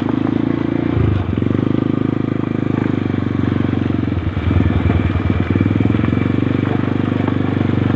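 Motorcycle engine running under way, its note shifting about a second in and again around four to five seconds in.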